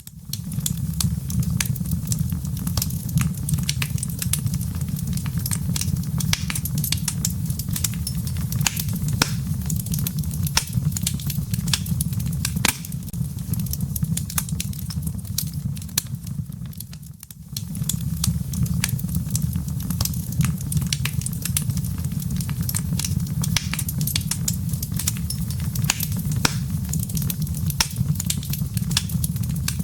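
Wood fire in a fireplace, its embers crackling with many small sharp pops over a steady low rumble. The rumble briefly drops away about seventeen seconds in.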